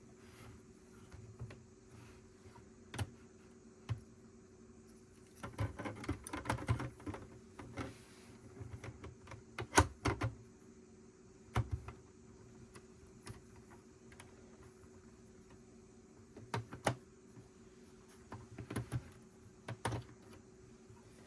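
Plastic Lego pieces being handled: scattered sharp clicks of bricks being pressed together, with a run of rapid clattering of loose pieces about six seconds in. The loudest click comes about ten seconds in.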